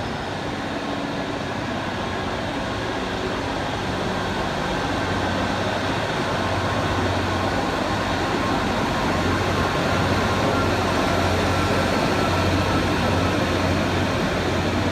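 Class 153 single-car diesel multiple unit pulling out under power. Its underfloor diesel engine makes a low drone that grows louder from about five seconds in.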